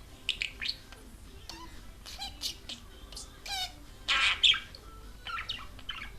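Budgerigar chattering: a run of short high chirps and quick warbling sweeps, with one loud, harsh squawk about four seconds in.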